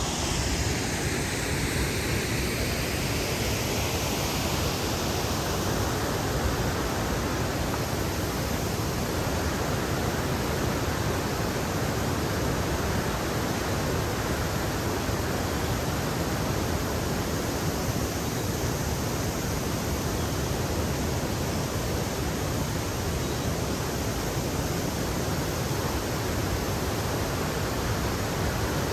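Waterfall: a steady, loud rush of falling water. The tone of the rush shifts a little in the first few seconds, then holds even.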